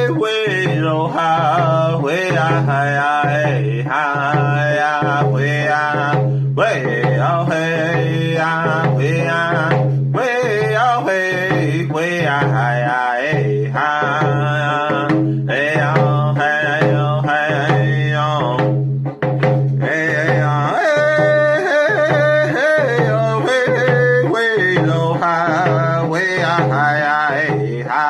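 A male singer singing a round dance song in vocables over a steady round dance beat on a hand drum. The drum beat is even throughout, and the voice drops out briefly about 19 seconds in.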